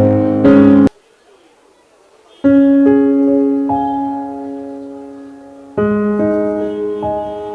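Background music: a loud passage cuts off a little under a second in, then after a short pause, slow sustained piano chords that ring and fade, with a new chord struck near the end.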